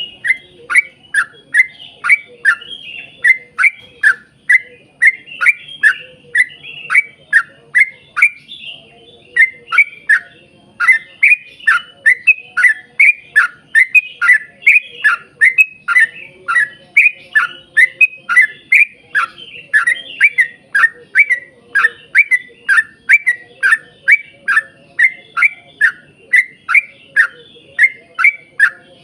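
Yellow-vented bulbul (trucukan) singing a long run of short chirps, each falling in pitch, about two a second, with one brief pause about nine seconds in.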